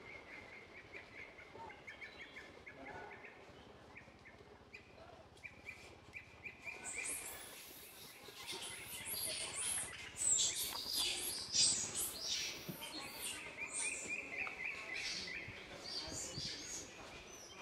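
Birds chirping: a faint, quick repeated chirp at first, then louder, high-pitched chirps and calls from about seven seconds in.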